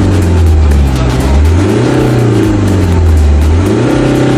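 BMW car engine revved by pumping the accelerator pedal: the engine note climbs to a peak about two seconds in, drops back, then climbs again near the end.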